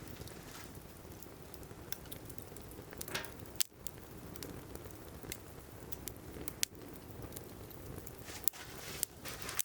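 Firewood burning in a fire grill, crackling with scattered sharp pops over a low steady rumble.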